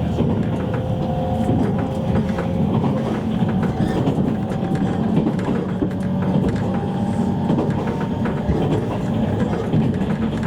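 Running noise inside a JR East E653 series electric train car at speed: a steady rumble of wheels on rail, with scattered clicks from the track and a few faint steady tones.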